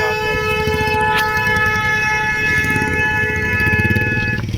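A vehicle horn held on one steady multi-note chord for about four seconds, cutting off sharply near the end, over the low rumble of engines on the road.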